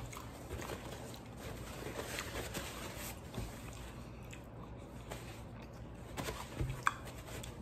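A man faintly chewing a mouthful of burrito, with soft wet mouth sounds and scattered small clicks; a sharper click comes near the end.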